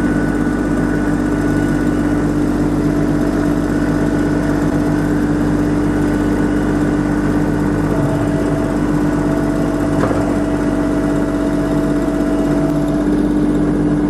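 Kubota LX2610 compact tractor's three-cylinder diesel engine running steadily at an even speed, with a faint thin whine coming and going over it.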